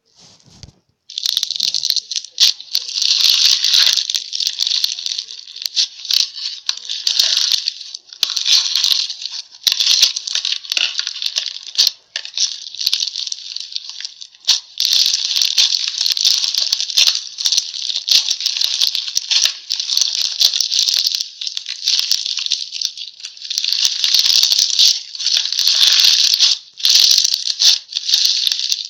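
Slime being poked and squished with fingers: a dense, loud stream of crackling and clicking that starts about a second in, with a few brief dips.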